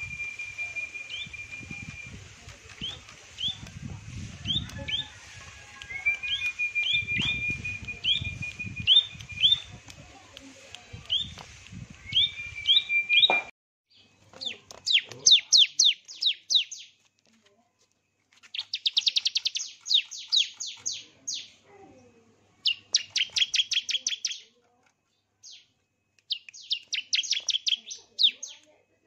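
Songbird calling: short, high, upward chirps repeated over a held whistle. About halfway through, this gives way to loud bursts of rapid chirping trills, each lasting a second or two, with short pauses between them.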